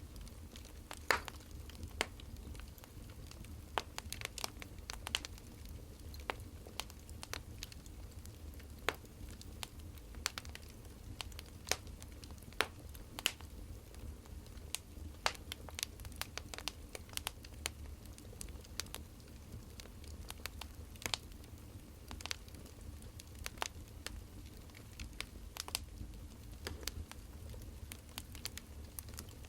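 Firewood burning and crackling: irregular sharp pops and snaps over a low steady rumble.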